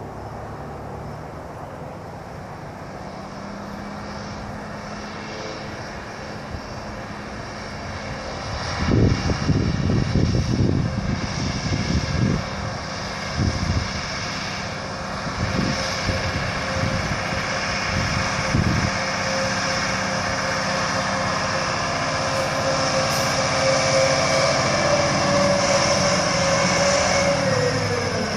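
Volvo A25D articulated truck's diesel engine running, with a steady high whine over it that drops in pitch near the end. Through the middle comes a run of loud, low, uneven bumps.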